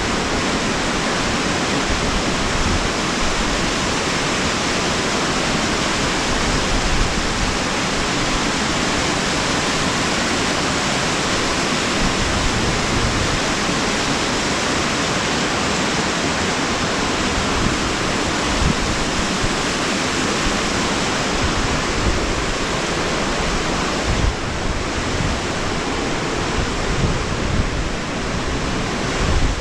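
Loud, steady rush of a mountain waterfall cascading over rocks close to the microphone. In the last few seconds wind buffets the microphone.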